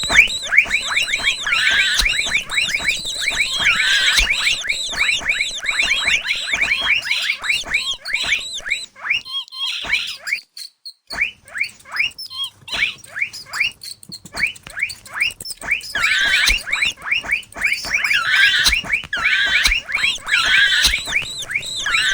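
Mouse squeaking sound effect: a rapid string of short, high-pitched, downward-sliding squeaks, several a second. They pause briefly about ten seconds in, then start up again.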